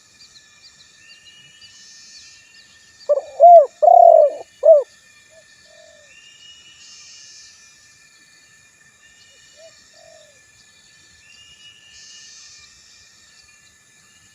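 Spotted dove cooing: one phrase of about five low coo notes a few seconds in, then a couple of soft single coos. Faint high chirps of other small birds run underneath.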